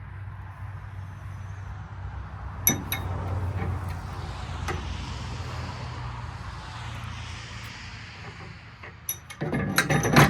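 Metal clinks and knocks from handling the steel fence of a table saw: one sharp clink about three seconds in and a quick cluster of louder clinks and knocks near the end, over a steady low hum and a hiss that swells and fades.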